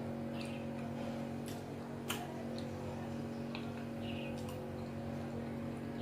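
Eating sounds: scattered short wet mouth smacks and clicks while chewing soft amala with ewedu and egusi soup, one sharper click about two seconds in, over a steady electrical hum.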